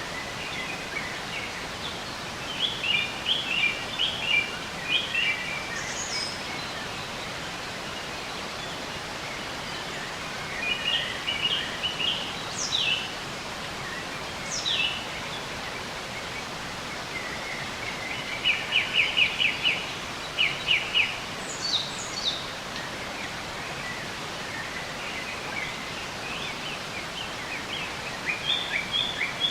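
Songbirds singing in short bursts of quick chirps and trills, with a few high downward-sweeping whistles, repeated several times over a steady rushing background noise.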